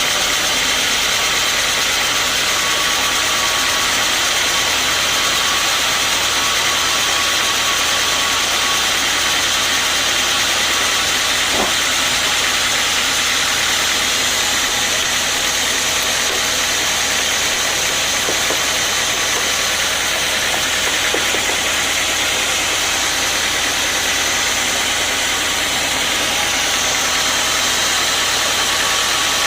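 Sawmill machinery running steadily: a constant engine drone with a high hiss over it.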